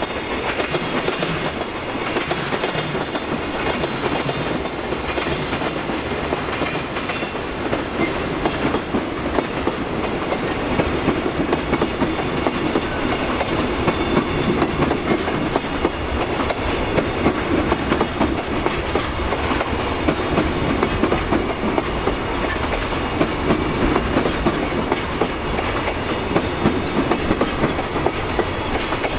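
A JR Freight EF210 electric locomotive and its train of Koki container flatcars roll past with a steady rumble of wheels on rail. Rhythmic clickety-clack from the wheels crossing rail joints grows sharper in the second half as the wagons go by.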